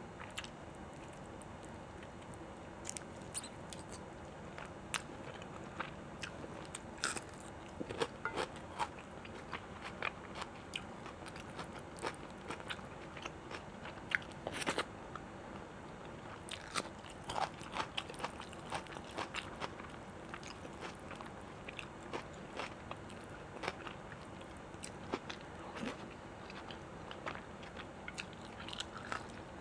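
Close-miked eating sounds: chewing and biting, with irregular crunches and wet clicks of the mouth.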